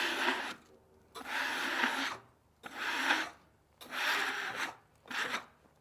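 About five rasping scrape strokes, roughly one a second, across the surface of a freshly sawn poplar slab.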